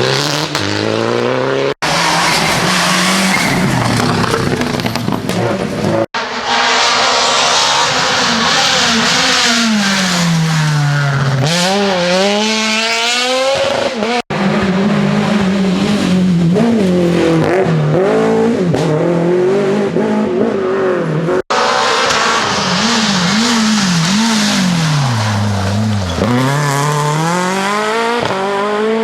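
Rally cars driven hard, engines revving up and falling back repeatedly through gear changes and corners, with tyre squeal and skidding. The sound cuts sharply four times as one car's clip gives way to the next.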